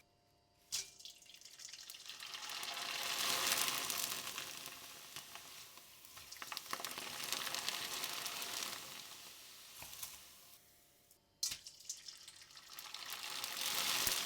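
Dry rice pieces dropped into hot frying oil, setting off a crackling sizzle that swells and then fades as they puff up. It breaks off briefly near the end and starts again suddenly with a fresh batch, swelling once more.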